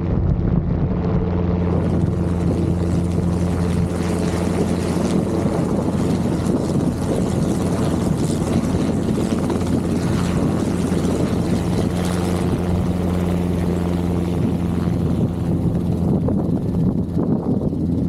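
Robinson R22 helicopter running steadily: a continuous drone of its piston engine and rotors with a constant low hum.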